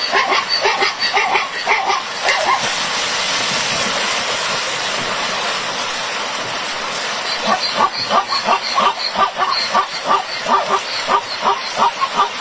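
Zebra calling in a fast run of short, yelping barks, about three a second, with a steady hiss in the pause between the two runs.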